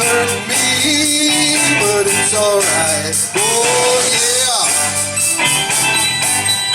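A band playing upbeat rock-and-roll with electric guitar, drums and a steady beat, and a gliding melodic line over it.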